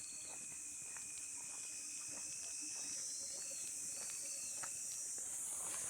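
Night chorus of crickets and other insects in summer rice fields: a steady high-pitched shrill that swells a little near the end. Under it, frogs call in pulsed croaks and trills, and there are scattered soft ticks of footsteps on the path.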